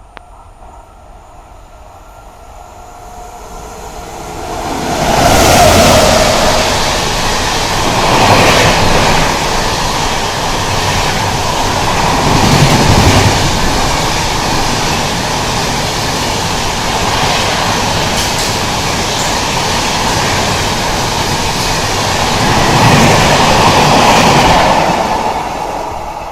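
Electric train passing close by at speed: the rumble builds over the first few seconds, stays loud with wheels clattering over the rails for about twenty seconds, then fades near the end.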